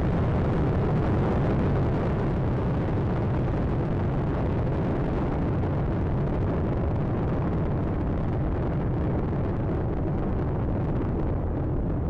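Space Shuttle Atlantis's launch roar, from its solid rocket boosters and three main engines climbing after liftoff: a continuous deep, crackling rumble. The high end thins slowly toward the end as the vehicle climbs away.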